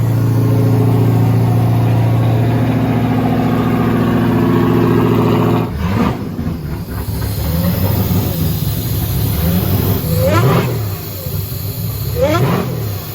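Supercharged engine running at a steady fast idle, then settling to a lumpier idle about halfway through. It is blipped twice near the end, quick revs that rise and drop straight back, showing a snappy throttle response after its restart from a suspected hydrolock.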